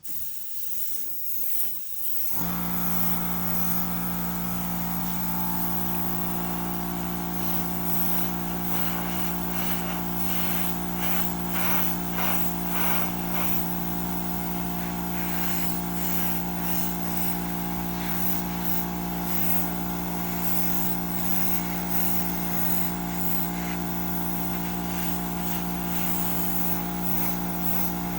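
Small pancake air compressor switching on about two seconds in and running with a steady motor hum, supplying air to an airbrush, with bursts of airbrush spray hiss over it.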